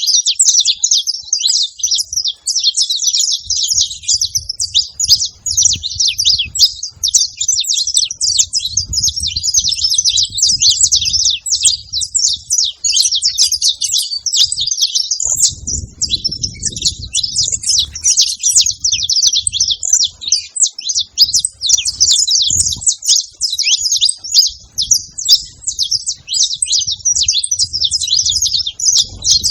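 Saffron finch singing a long, unbroken run of rapid, high chirping phrases, with a faint low rumble underneath at times.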